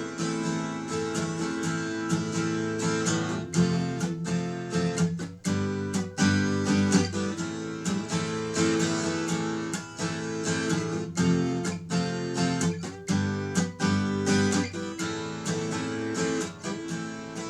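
Acoustic guitar strummed in a steady rhythm, chords ringing between quick strokes.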